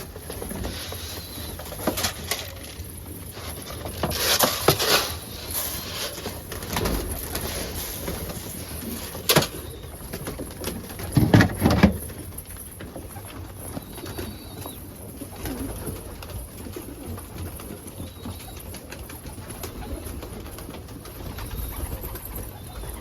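A flock of homing pigeons cooing while they feed on wheat, with many short taps of pecking and a few louder flurries that fit wing flaps, the loudest about eleven seconds in.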